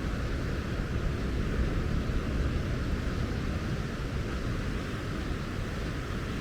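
Wind buffeting the microphone as a steady, fluttering low rumble over an even hiss of outdoor noise, with no distinct events.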